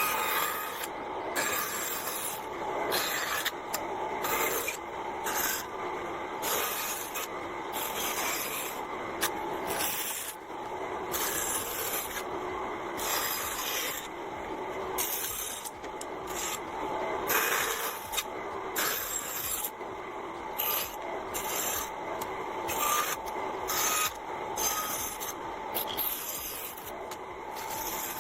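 Wood being abraded by hand: repeated back-and-forth rubbing strokes, roughly one or two a second, continuing without a break.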